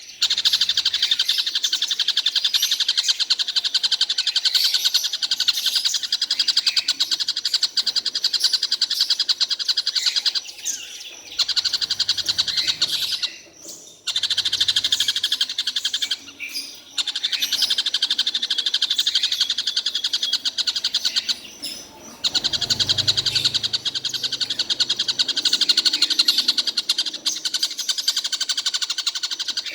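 Caged tengkek buto kingfisher calling in long, fast rattling trills that go on almost without a break, pausing only a few times for a moment.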